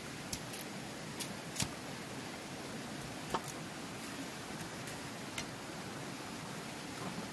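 A handful of sharp, irregular taps and clicks, a few close together in pairs, over a steady hiss.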